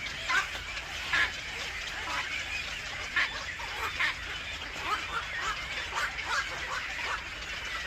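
Bird calls: short chirps between 1 and 4 kHz, roughly one a second at first and coming quicker and more crowded in the second half, over a steady background hiss.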